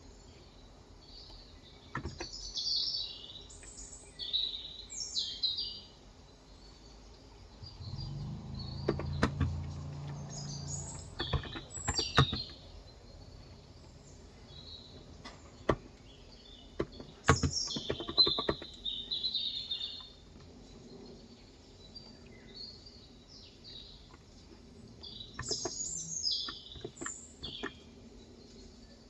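Small birds chirping and singing in short bursts, several times over. Scattered sharp clicks from keystrokes on a COX Endeavor electro-capacitive (Topre-style) keyboard with 35 g switches sound alongside, and a low rumble comes in from about eight to eleven seconds in.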